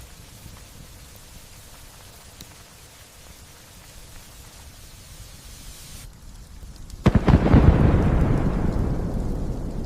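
Light rain falling as a steady soft hiss, then about seven seconds in a sudden loud clap of thunder that rumbles on and slowly fades.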